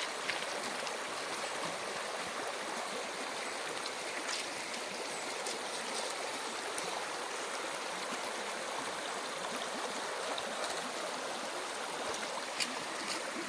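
A mountain stream rushing steadily, with a few light clicks here and there.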